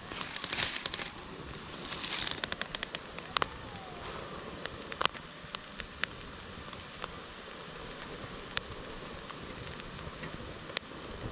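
Wood campfire crackling: sharp pops come at irregular intervals over a steady low hiss, with two short flurries of crackle and hissing in the first couple of seconds.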